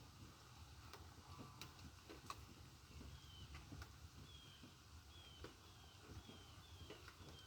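Faint bird chirping: a string of short, falling high chirps repeated from about halfway through. Under it are a faint steady low rumble and a few faint ticks in the first half.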